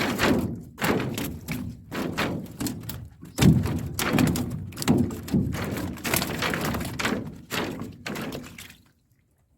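Irregular thuds and knocks in a boat, a few a second, that stop abruptly shortly before the end.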